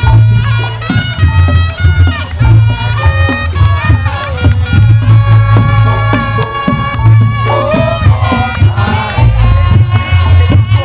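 Reog Ponorogo music: a slompret, the reedy Javanese shawm, plays a stepping, ornamented melody over heavy, booming drum beats, loud throughout.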